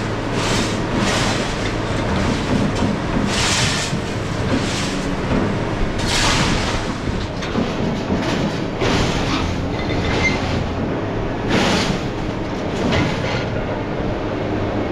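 Scrap metal crashing and clanking as a crane drops it into a truck bed, a crash every second or two, over the steady drone of a heavy machine's engine.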